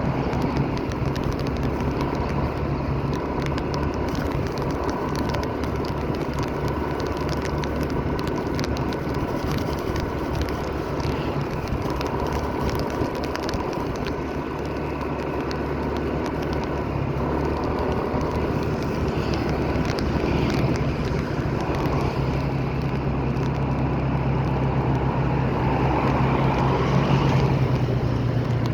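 Steady running noise of a road vehicle: a low engine hum under a noisy haze of road noise, with the hum shifting slightly about halfway through.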